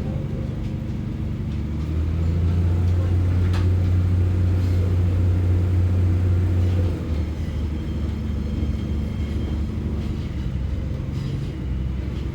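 Underfloor diesel engine of a Class 144 Pacer railbus running with a low steady drone. It grows louder about two seconds in and eases back about seven seconds in.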